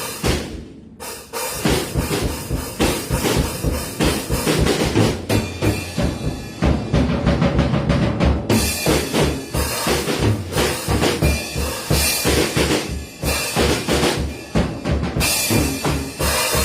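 Drum kit played hard and fast in a loose freeform pattern: rapid bass-drum strokes under snare hits and crashing cymbals, with a brief break about a second in and the cymbals dropping out for a few seconds midway before returning.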